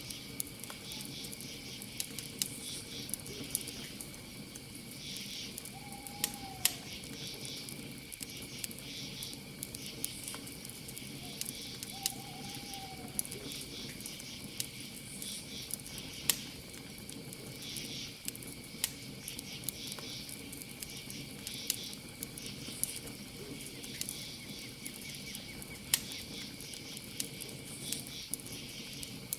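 Campfire crackling, with irregular sharp pops, over a steady chorus of crickets chirping in high pulsed trills. Two short, faint arching calls come about six and twelve seconds in.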